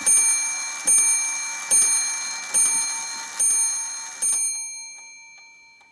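Florenz Kroeber mantel clock striking the hour: six evenly spaced strikes, a little under a second apart, each ringing on. The last strike comes about four seconds in and rings out, leaving faint ticking.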